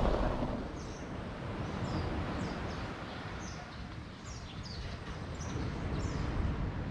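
A small bird chirping repeatedly, short high falling notes about twice a second, over a steady outdoor background hiss and low rumble.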